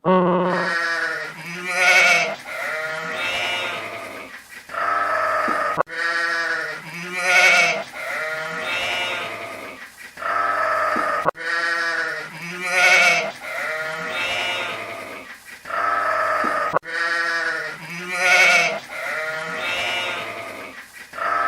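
Sheep or goat-type bleating: a run of several wavering, pitched bleats that repeats identically about every five and a half seconds, as a looped recording.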